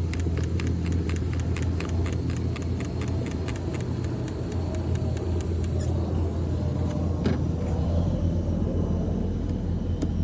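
Trigger spray bottle of leak-detection solution pumped rapidly, about three sharp clicking squirts a second for some six seconds, then one more squirt, over a steady low hum.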